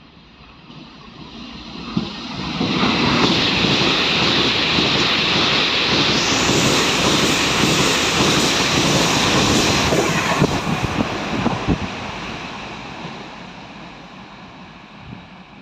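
A train passing at speed: the rumble and wheel-on-rail clatter build over a few seconds, stay loud for about seven seconds, then fade away.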